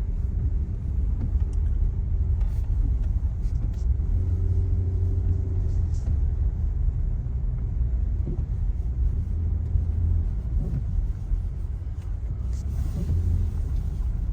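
Steady low rumble of a car on the move, heard from inside the cabin: engine and road noise, with a faint hum rising a little in the middle.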